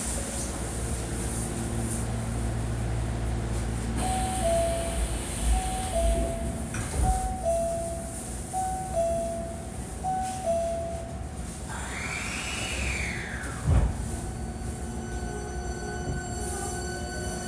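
Hankyu 1300 series train at a station stop: a two-note descending door chime repeats about six times. It is followed by a rising and falling sweep and a sharp thud about 14 seconds in as the doors close. Steady whining tones set in near the end.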